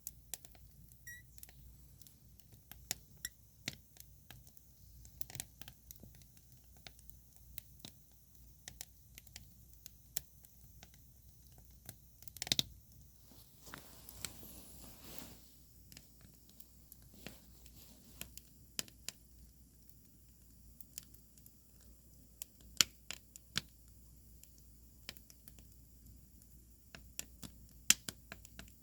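Wood fire burning, the logs crackling with irregular sharp pops and snaps over a low hiss. A louder cluster of snaps comes about twelve seconds in, followed by a soft hissing for a couple of seconds.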